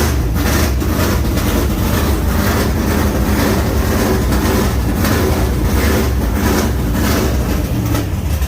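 Hepworth-Chevrolet GB1's Chevrolet V8 running at an uneven, pulsing idle shortly after a cold start.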